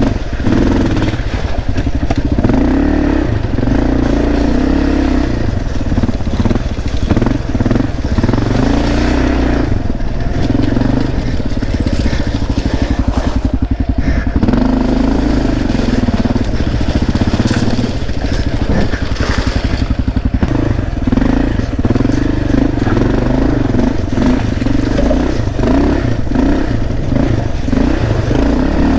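Motorcycle engine running as it is ridden, its pitch rising and falling over and over as the throttle is opened and closed.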